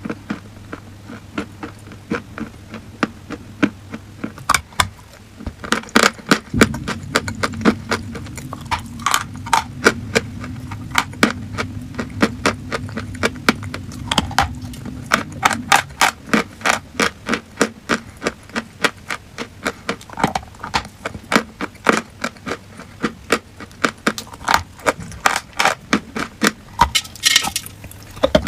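Crunchy chalk being crunched: a long run of sharp, crisp crunches, several a second, with a low steady hum underneath.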